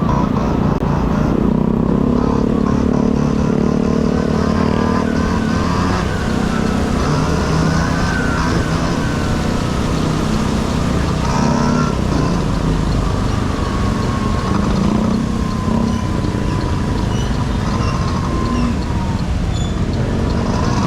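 Honda Dio AF18 two-stroke scooter engine running under way, its pitch rising and falling repeatedly with the throttle, over steady wind noise.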